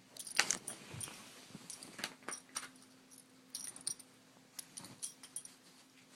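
A dog's metal collar tags jingling and clicking in short, irregular clusters as it moves about.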